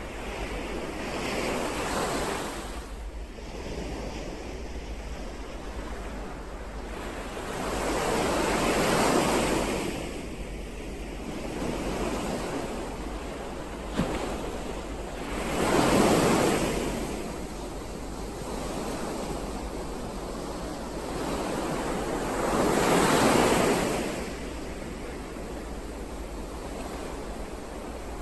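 Ocean waves breaking and washing on the shore, swelling every six or seven seconds, with the loudest breakers about 16 and 23 seconds in. A brief sharp click about 14 seconds in.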